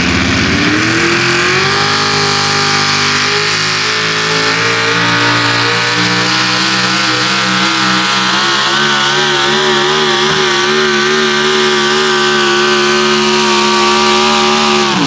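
Competition 4x4 pulling truck's engine at full throttle. Its revs climb over the first couple of seconds and then hold high and wavering through the pull, dropping off sharply right at the end.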